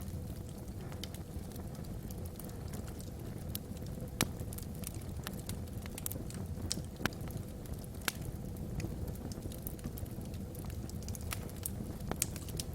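Wood logs burning in a fireplace: a steady low rumble of flame with irregular sharp crackles and pops, a few louder pops about four and eight seconds in.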